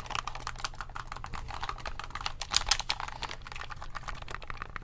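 Rapid, dense clicking of the plastic buttons on an Xbox One game controller, pressed in quick succession without pause.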